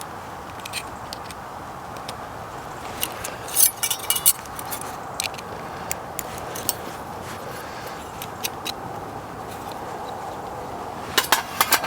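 Light metal clinks and taps as the parts of a small fire-bowl stove are fitted together, a cluster about four seconds in and more near the end, over a steady background hiss.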